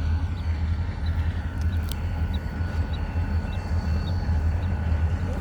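Low, steady rumble of two diesel locomotives running light, with no cars behind them.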